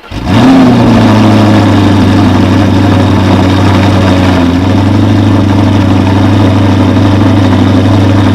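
Straight-piped Audi R8 V8 firing up: the revs flare as it catches, then drop back and settle within about a second and a half into a loud, steady idle.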